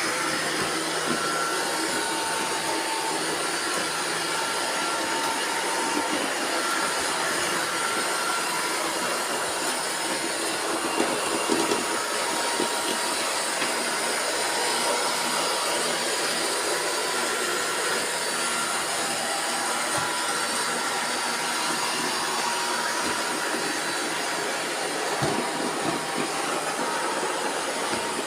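Several robot vacuum cleaners, a Roomba 560 among them, running at once: a steady whir of suction motors and brushes with faint motor whines over it. A few brief knocks about eleven seconds in and again near the end.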